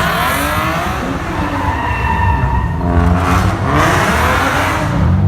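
Car tires squealing over the rumble of engines, in two long screeches that waver in pitch: one early that fades by about a second and a half in, and another from about three seconds in.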